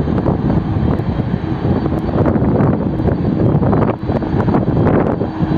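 Aircraft engines running loud and steady, a dense rushing noise without a clear tone.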